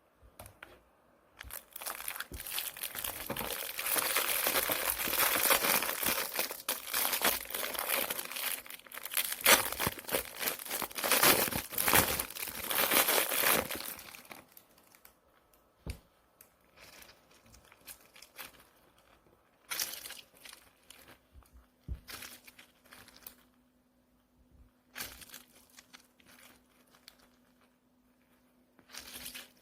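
Packaging of a frog-egg candy prize crinkling and being torn open, dense and loud for the first thirteen seconds or so. After that come sparser, quieter rustles and a few light clicks of handling.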